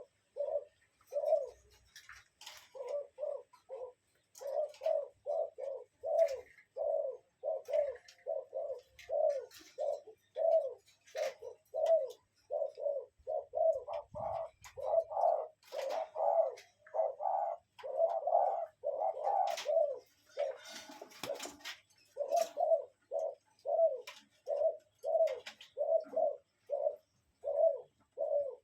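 A bird giving short, low calls over and over, about two a second, which come closer together and louder around the middle.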